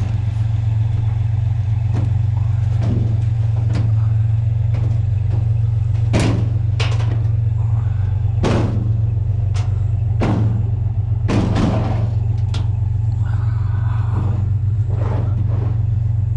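Vehicle engine running with a steady low drone, with irregular clattering knocks over it, about a dozen in all and loudest around the middle.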